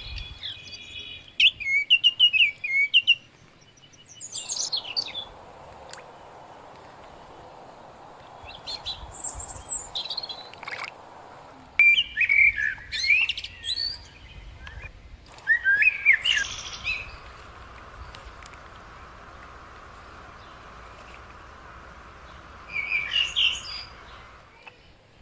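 Birds chirping in short, loud bursts of quick twittering calls that come several times over a steady, fainter hiss.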